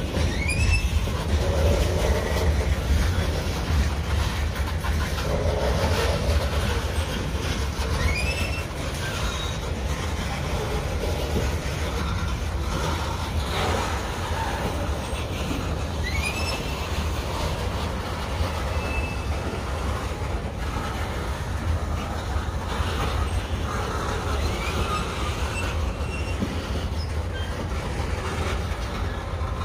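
Union Pacific freight train's covered hopper cars rolling steadily past at close range, a continuous rumble of wheels on rail with some clickety-clack. Short rising wheel squeals come about every eight seconds.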